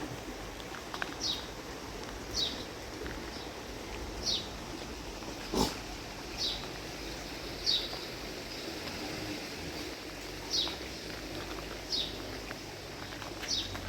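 A bird repeating a short, high, falling call about once every second or so, over a steady outdoor hiss. A single sharp tap sounds about halfway through.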